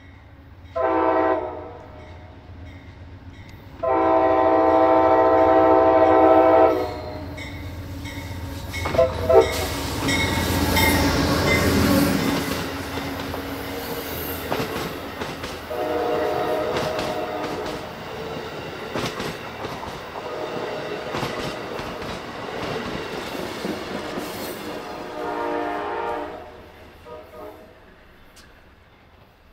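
Amtrak GE Genesis diesel locomotive sounding its multi-tone air horn for a grade crossing, a short blast then a long one, followed by the locomotive and its stainless-steel passenger cars passing close with a loud rumble and the clickety-clack of wheels over rail joints. Further horn blasts come during the passing, and the train noise fades near the end.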